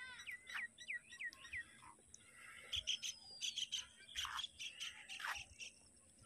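Birds chirping: a quick run of short, downward-sliding chirps in the first second and a half, then scattered chirps and scratchy calls.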